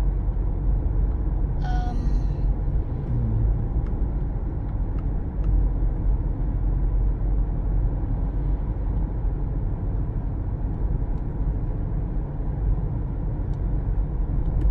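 Steady low rumble of a car's road and engine noise heard from inside the cabin while driving, with a brief higher-pitched sound about two seconds in.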